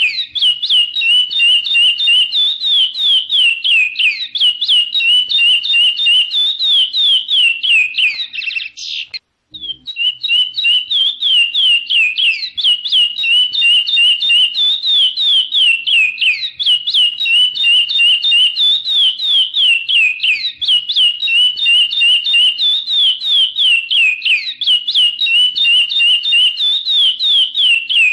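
Chestnut-bellied seed-finch (curió) singing, a fast, continuous string of clear whistled notes, many sliding downward, with a brief pause about nine seconds in before the song resumes.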